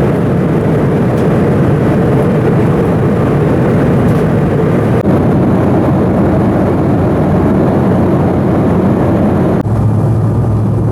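Embraer 190 jet airliner heard from inside the passenger cabin: a loud, steady rumble of engines and airframe. About nine and a half seconds in, the higher hiss drops away and a low steady hum comes to the fore.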